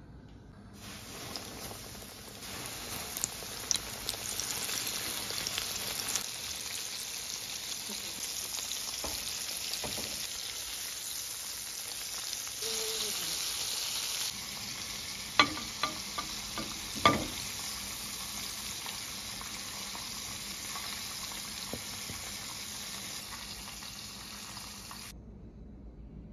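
Egg-and-flour-coated shrimp frying in hot oil in a pan: a steady crackling sizzle, with a few sharp knocks past the middle. The sizzle cuts off suddenly near the end.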